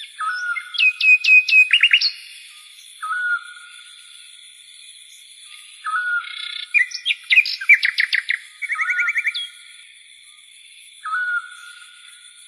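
Bird calls: a short whistled note repeating every few seconds, with two bursts of rapid chirps and trills about two and seven seconds in, over a steady high-pitched whine.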